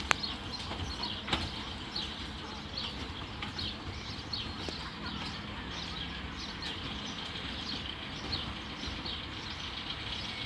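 A small bird chirping over and over, short falling notes about two a second, over a low steady rumble, with a sharp click just after the start.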